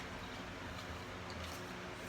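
Faint steady background noise with a low hum: room tone, with no distinct event.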